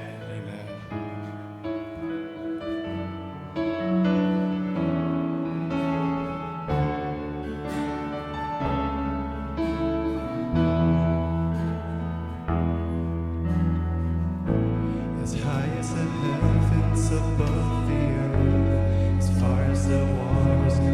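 Church worship band playing slow instrumental music: held keyboard chords, with a deep bass line coming in about eight seconds in and the sound growing fuller and louder, with cymbal shimmer, from about fifteen seconds in.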